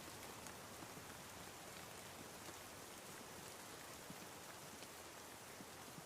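Steady rain falling, an even faint hiss with a few scattered drop ticks.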